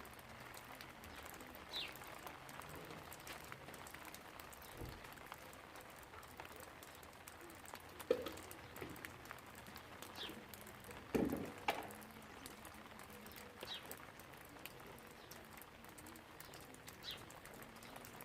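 Steady light rain with a bird chirping now and then: single short falling chirps, about five in all. Two louder drips or knocks stand out, about 8 and 11 seconds in.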